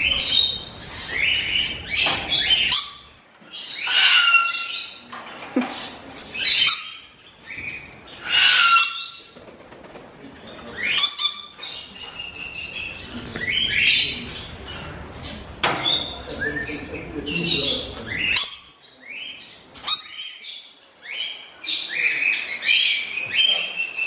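Birds chirping and whistling: many short, high, sliding calls one after another, with the odd squawk.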